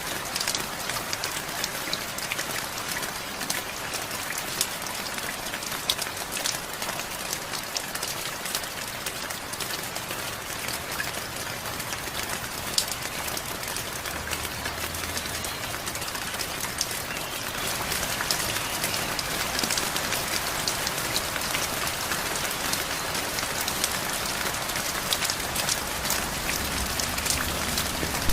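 Steady rain falling, with many sharp, close drop hits among the even hiss; it grows a little louder a little past halfway.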